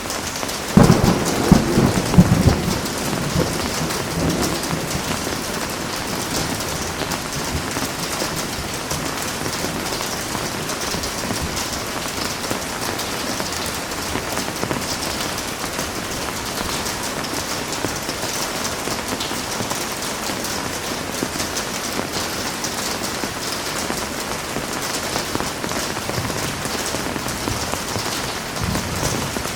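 Heavy rain falling steadily on a surface. About a second in a loud thunderclap breaks out and rumbles away over the next few seconds, and a fainter low rumble comes near the end.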